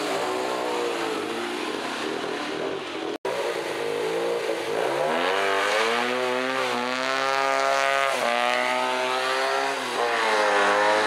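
A Peugeot 205 rally car's engine running, then after a brief cut the small air-cooled two-cylinder engine of a Fiat 500 Abarth, rear engine lid propped open, revs and pulls away. Its note climbs in pitch and drops back at each gear change, three or four times.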